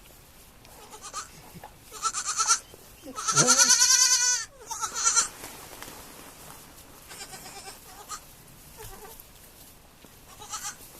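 Young goats bleating: a series of calls, the longest and loudest about three seconds in, with a wavering, trembling pitch, and shorter, fainter bleats after it.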